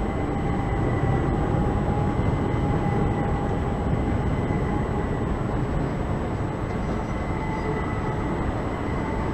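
Electric multiple-unit passenger train running on the line, a steady rumble with a faint whine.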